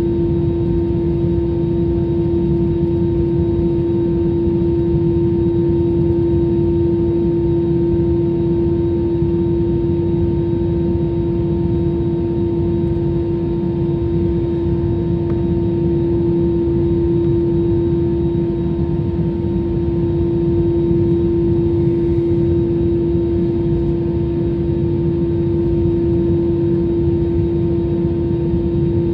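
Jet airliner cabin noise: a steady low rumble from the engines and airflow, with a steady hum held at one pitch.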